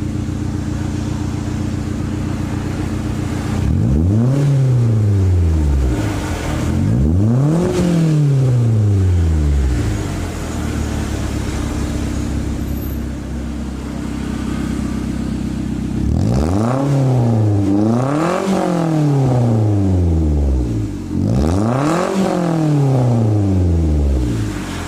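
Toyota Avanza's engine through a bolt-on aftermarket racing exhaust, idling steadily and revved in short throttle blips that rise and fall in pitch: two spaced revs, then three more in quick succession near the end.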